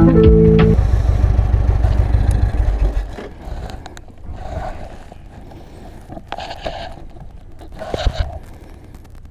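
Motorcycle riding noise with heavy low wind rumble that drops away about three seconds in, leaving a much quieter background with a few short scraping swells. A music track ends within the first second.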